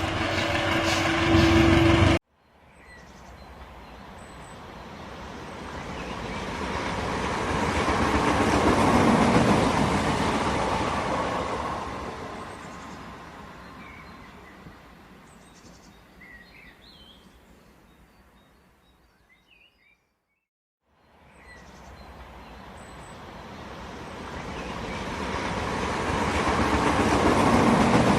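Train running noise on the rails that swells to a peak and fades away twice, with a moment of silence between. It opens with a loud steady tone, cut off abruptly about two seconds in.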